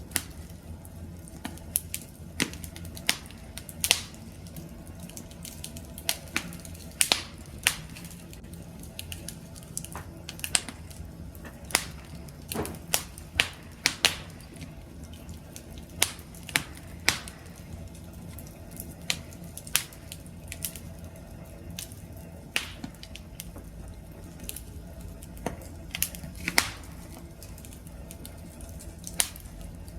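Wood campfire crackling: irregular sharp pops and snaps over a low steady rumble of the flames, the pops growing sparser in the second half.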